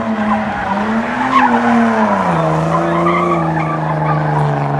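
Car engine held at high revs with tyre squeal, as in a burnout. The engine pitch rises about a second in, drops at about two seconds and holds lower before climbing again near the end.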